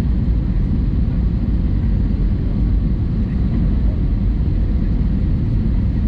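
Steady cabin noise inside an Airbus A320-200: an even, loud rumble of engines and airflow, with no sudden changes.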